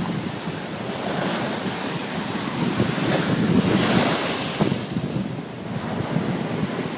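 Sea waves washing against a rocky shore, with wind buffeting the microphone; a wave surges into a louder hiss about four seconds in, then draws back.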